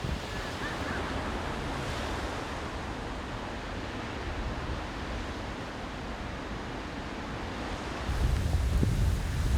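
Steady rushing noise of typhoon weather. About eight seconds in, it gives way to low, gusty wind buffeting on the microphone.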